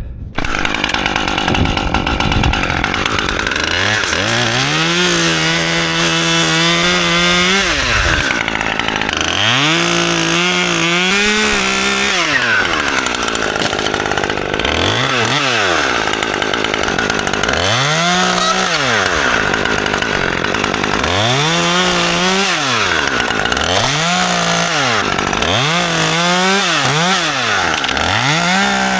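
Chainsaw cutting in repeated bursts: the engine rises to full speed, holds there for a second or a few seconds, then drops back to idle, about ten times over, with the bursts shorter and closer together near the end.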